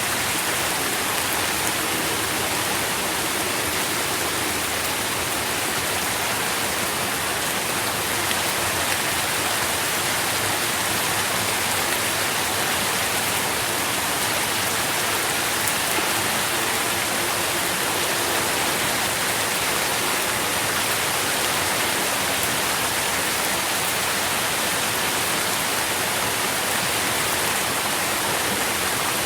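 Steady rain falling and pattering on leaves and the ground under a tree, an even hiss with fine scattered drop ticks.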